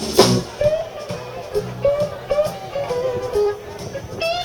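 Live blues-rock band playing, with electric lead guitar taking bent-note phrases over the band after a sharp hit at the start.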